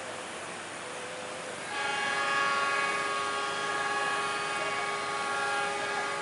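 Diesel locomotive horn sounding one long chord of several tones from about two seconds in, stopping just before the end, over a steady rushing background noise.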